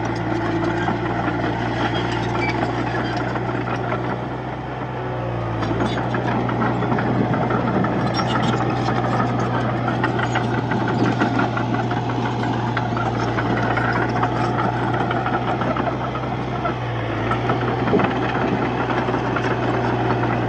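Komatsu D31P crawler bulldozer's diesel engine running steadily under load, with clatter over it. The engine note dips briefly about four seconds in and again near seventeen seconds.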